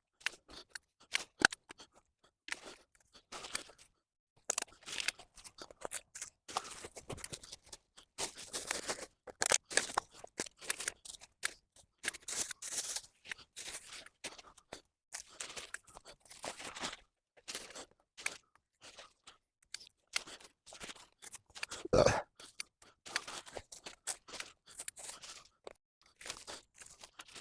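Irregular crunching, rustling and clicking as litter is pulled out of dry leaves and undergrowth with a litter picker, with one louder crunch about 22 seconds in.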